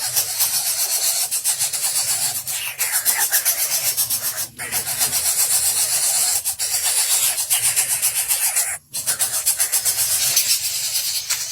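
A fast, even rasping rhythm, pulsing about four to five times a second, broken by brief gaps about four and a half and nine seconds in.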